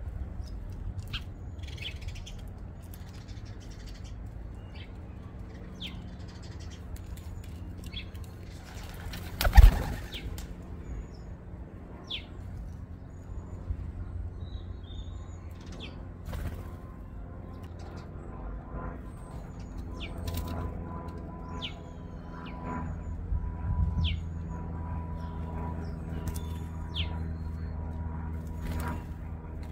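Birds at a suet feeder: flapping wings and scattered short chirps and clicks, with one loud knock about ten seconds in. A low, steady hum runs underneath and grows stronger near the end.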